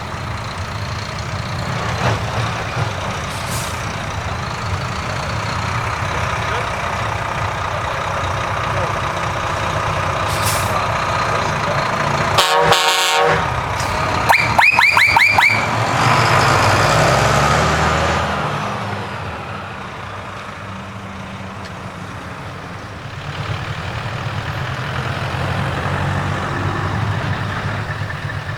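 Truck engines running as trucks drive past. About halfway through, a truck horn gives a short pulsing blast and then a quick run of about six toots. Just after, a truck's engine passes louder before the sound drops back.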